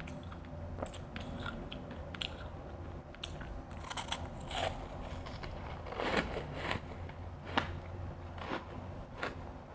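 Refrozen crushed ice being bitten and chewed close to the microphone: irregular, crisp crunches that cluster more densely in the second half, with a steady low hum underneath.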